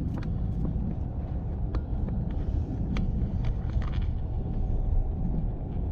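Steady low road and engine rumble inside a moving vehicle's cabin, with scattered light clicks and rattles.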